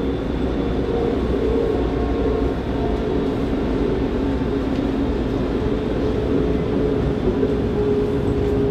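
Passenger train running at speed, heard from inside the carriage: a steady rumble from the running gear with a low humming tone over it.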